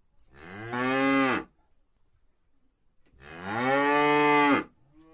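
A cow mooing: two long calls about two seconds apart, each swelling in loudness and dropping in pitch as it ends. The second call is the longer, and a fainter third call begins near the end.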